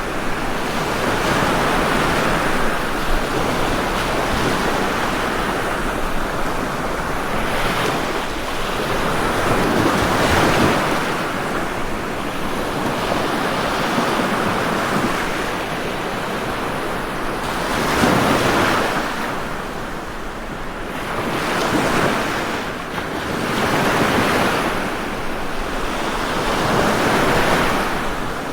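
Ocean waves breaking and washing on a shore, a continuous rushing surf that swells and eases every few seconds, with stronger breakers about 10 and 18 seconds in.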